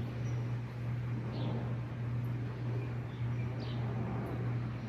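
A steady low hum, with a few faint short high chirps now and then.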